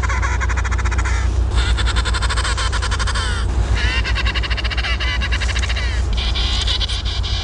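Penguins calling: a run of harsh, rapidly pulsed squawking calls, each a second or two long, one after another, over a steady low rumble.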